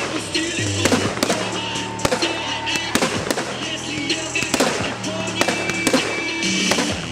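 Fireworks going off, with repeated sharp bangs and crackles at irregular intervals, over background music.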